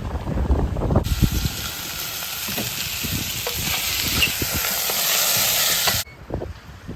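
Wind buffeting the microphone on a sailing yacht, then a loud steady hiss that starts suddenly about a second in and cuts off just as suddenly about six seconds in.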